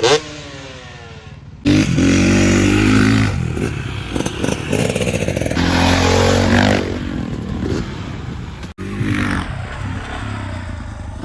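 Motocross dirt bike engines revving up and easing off, loud and close. The sound jumps abruptly a few times where separate clips are cut together.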